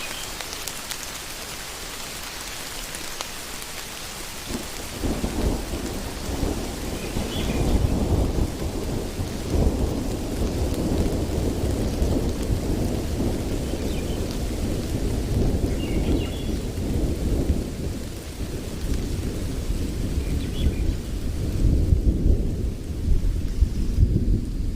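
Steady rain hiss. About five seconds in, a heavy low rumble sets in over the rain and keeps rising and falling to the end.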